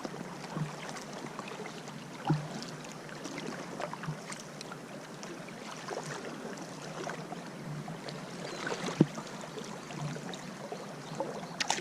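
Kayak on the moving Lower Salt River: water trickling and lapping around the hull, with scattered small splashes and light knocks from paddle and boat, one sharper knock about nine seconds in.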